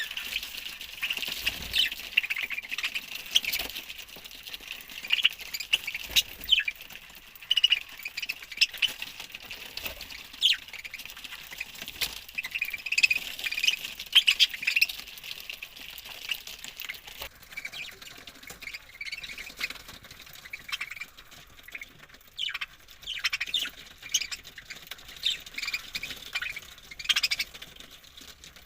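A flock of budgerigars chattering: many short chirps and squawks overlapping without a break, thinning a little in the second half.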